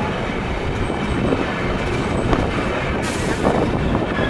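Indian Railways passenger train rolling past at close range: a steady rumble of coach wheels on the rails, with a brief hiss about three seconds in.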